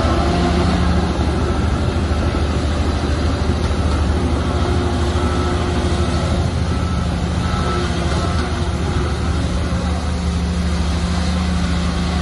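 Shantui bulldozer's diesel engine running steadily at a constant pitch, with a continuous noisy clatter over the low engine drone.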